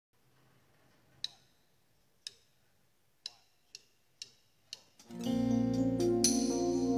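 A count-in of sharp ticks, three about a second apart and then three quicker ones about half a second apart. About five seconds in, a band comes in playing an instrumental with guitar and a strong bass.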